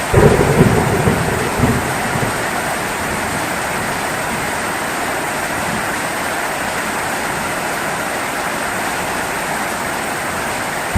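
Steady heavy rain falling, with a low rumble of thunder in the first two seconds that then fades into the rain.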